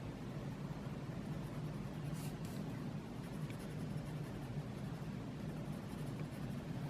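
Silver colored pencil shading on a sketch-paper tile: a steady, soft scratching of pencil lead on paper.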